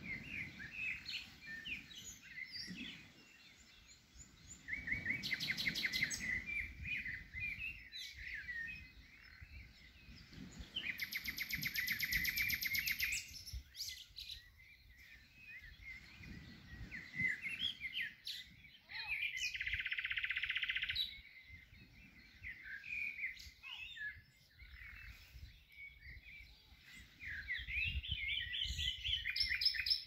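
Several small songbirds chirping and calling over one another, with a few louder bursts of fast trills.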